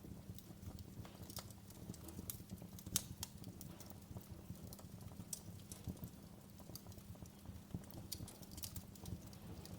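Wood fire crackling in a fireplace: irregular snaps and pops over a steady low rumble, with one louder pop about three seconds in.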